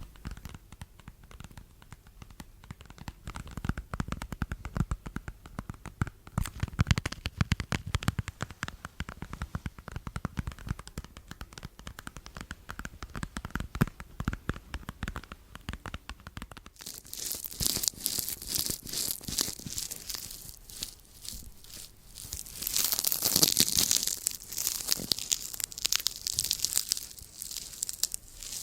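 Close-up ASMR handling sounds: scratchy rubbing and tapping for the first half, then loud crisp crinkling and tearing from a little past halfway, loudest a few seconds before the end.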